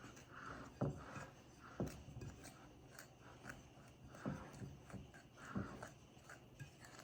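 A fork stirring dry brown sugar and flour in a bowl: faint scraping and rubbing, with four sharper knocks of the fork against the bowl.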